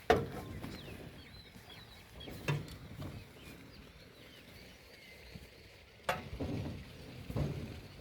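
Faint bird chirps, with a sharp knock at the start and a few duller bumps later.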